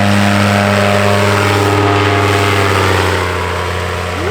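Paramotor engine and propeller droning steadily in flight, easing off slightly near the end.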